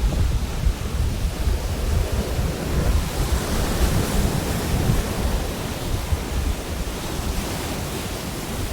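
Pacific Ocean surf breaking and washing on a beach, a steady rush with a brighter hiss swelling a few seconds in, with low wind rumble on the microphone.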